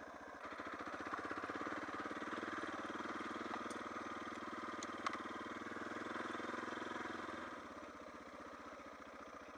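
Single-cylinder dual-sport motorcycle engine running at low speed with an even, pulsing beat. It dies down about three-quarters of the way through.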